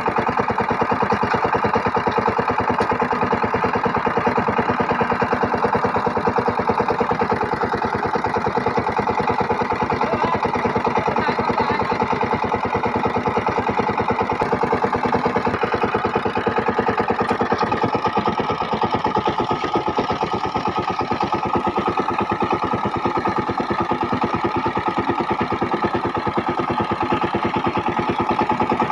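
Power tiller's diesel engine running steadily with a fast, even firing beat.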